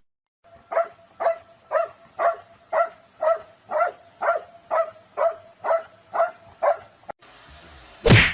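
A dog barking in a steady rhythm, about two short barks a second, a dozen or so in a row. Near the end the barking stops and there is a single loud sudden thud or whoosh.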